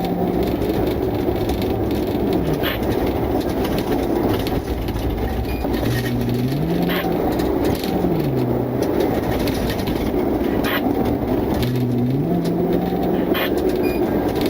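Engine and road noise inside a moving car, with the engine note dropping and climbing a few times as the car slows and speeds up.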